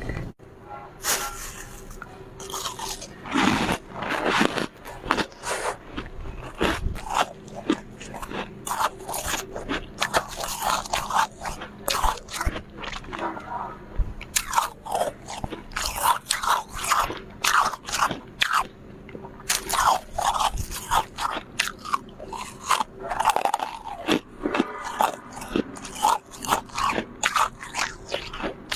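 Close-miked biting and chewing of soft, powdery freezer frost: rapid, irregular crunches, several a second, with no pause.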